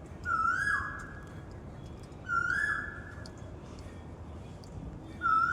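Asian koel calling: a loud whistled two-part "ku-oo" that rises, holds, then drops, given three times about two seconds apart.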